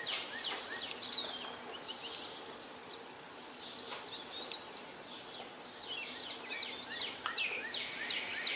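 Songbirds singing and chirping: a stream of short high chirps, with louder warbled phrases about a second in, around four seconds and again past six seconds, over a faint steady background hum.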